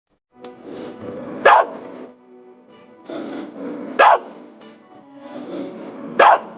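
A dog barking three times, single barks spaced a couple of seconds apart, over background music.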